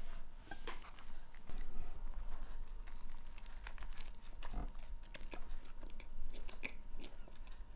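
A person biting into a cheeseburger on a brioche bun and chewing the mouthful, with a run of small wet clicks and crunches.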